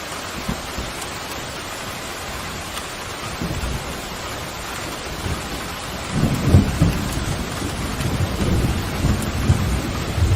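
Steady heavy rain, with a low rolling thunder rumble that starts building about a third of the way in and swells loud over the second half.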